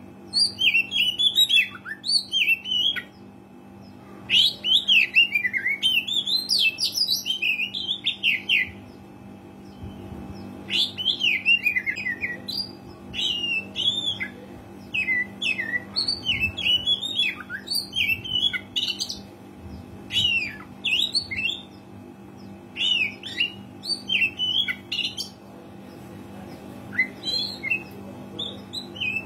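Oriental magpie-robin (kacer) in full song: fast, varied runs of sharp chirps and whistles in phrases of a few seconds with short breaks, over a steady low hum.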